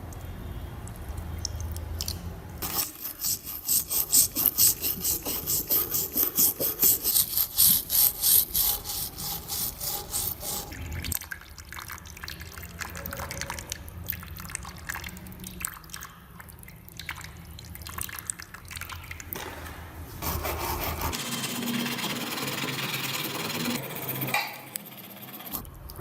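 Brisk back-and-forth scrubbing strokes on the metal parts of a rusty manual meat grinder, about two to three strokes a second, followed by quieter handling. Near the end comes a steady hiss lasting a few seconds.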